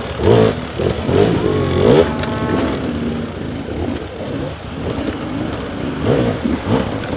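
Dirt bike engine revving up and down repeatedly, with a higher whine about two seconds in.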